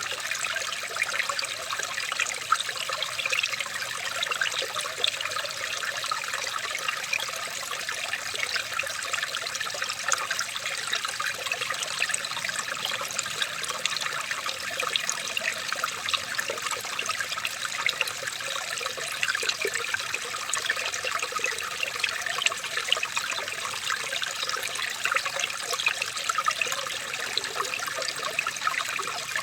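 Water trickling and splashing steadily, like a small stream running over stones, with a constant fine bubbling.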